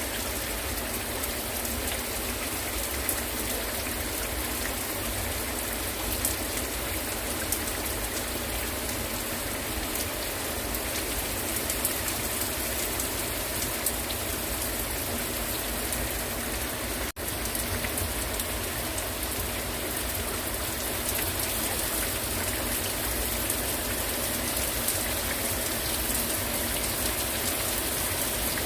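Heavy rain falling steadily, a dense hiss with scattered drop ticks, broken by a momentary gap about two-thirds of the way through.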